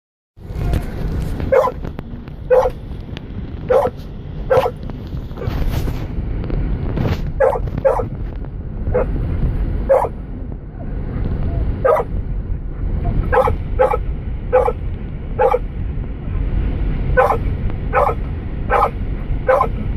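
A dog barking over and over, short sharp barks about one a second with a brief pause midway, over the steady low rumble of the vehicle driving.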